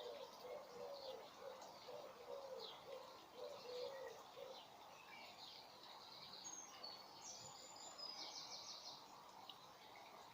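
Faint birdsong: small birds chirping, with a repeated call of short low notes in the first few seconds and a quick trill about eight seconds in.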